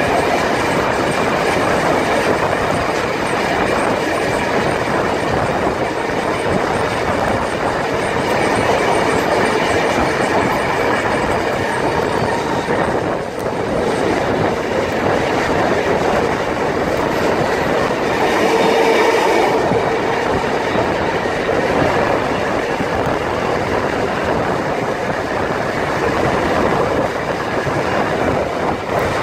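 Carriage of a steam-hauled heritage train running along the track: a steady rumble of wheels on rails with the clickety-clack of rail joints, heard through an open carriage window.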